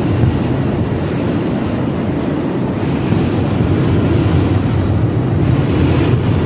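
Wind buffeting the microphone as a steady low rumble, with no distinct firework bangs standing out.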